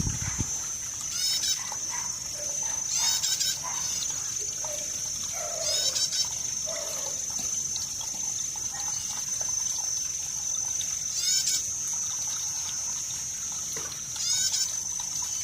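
Water trickling and gurgling steadily under a continuous high-pitched whine. Short bursts of high chirping notes come every few seconds, about six times.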